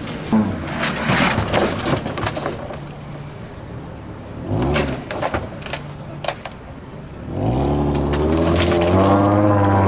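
Scattered clicks and knocks, then about seven seconds in a car engine revs up and holds a loud, steady exhaust note.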